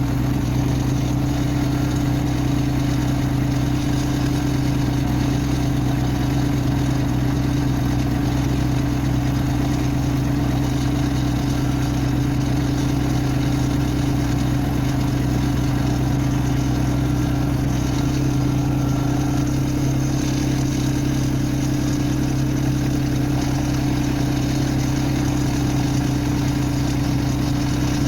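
Tractor engine running at a steady speed, with an even, unchanging hum.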